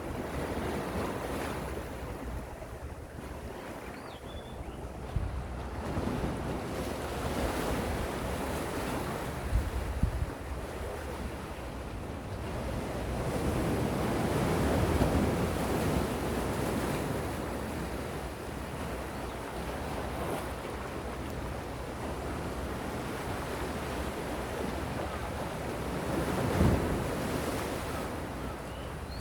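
Gentle sea waves washing in and receding, the surf swelling and easing over several seconds at a time, with wind buffeting the microphone.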